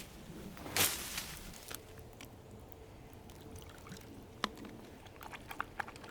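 Twigs and firewood being handled while a campfire is set up: a brief rustle about a second in, then a sharp click and several light taps and clicks near the end.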